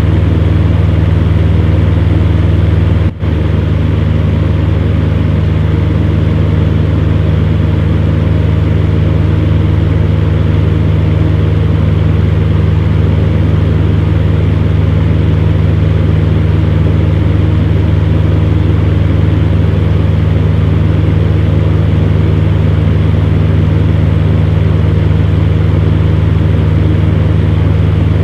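Electric fan heater running steadily: a constant low hum from the fan motor under an even rush of blown air, with a momentary break about three seconds in.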